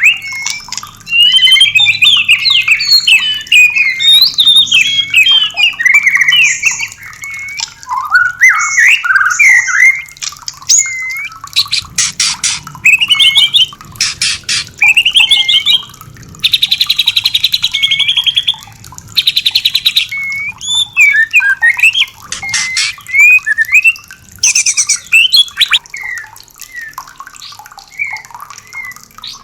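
White-rumped shama (murai batu) singing fast, varied whistled phrases that sweep up and down. These are broken by harsh rattling calls (the 'kretekan' of a female in breeding condition): a burst of rapid clicks about twelve seconds in, and two longer buzzy rattles about seventeen and nineteen seconds in.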